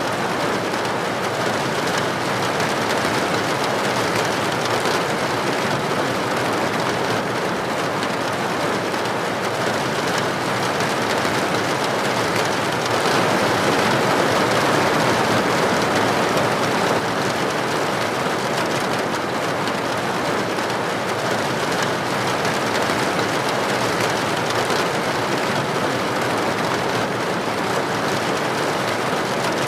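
Steady rain falling, an even hiss of many drops without breaks, growing a little louder for a few seconds midway.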